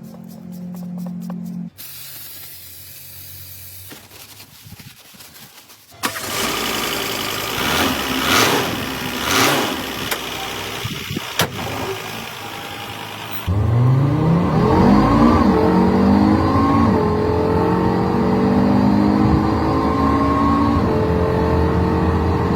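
Car engine revving up sharply about halfway through and then holding a high, steady rev, after a stretch of loud hissing noise.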